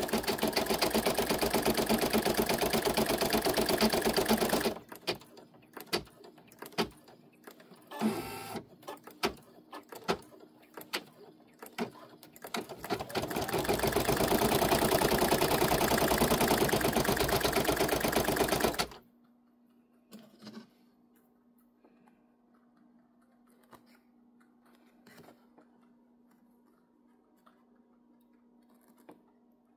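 Embroidery machine stitching at speed, a dense steady mechanical chatter. It stops about five seconds in, gives way to scattered clicks and knocks, runs again for about six seconds, then stops, leaving near silence with a faint steady hum and a few soft clicks.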